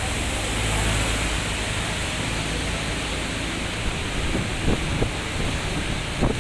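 Steady rushing noise with a low rumble underneath, and a few short knocks in the last couple of seconds.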